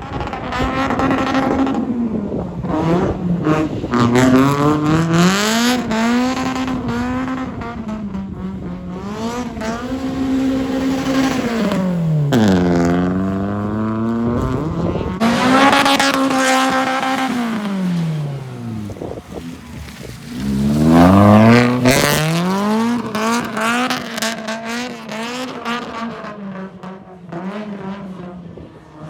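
Toyota Altezza's 3S-GE four-cylinder engine revving hard while drifting. The revs climb, hold flat near the top, then fall away again and again as the throttle is worked, with deep drops about 13 and 20 seconds in.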